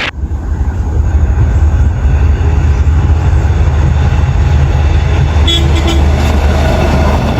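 Diesel train running close by with a heavy, steady low engine rumble, and a brief high tone about five and a half seconds in.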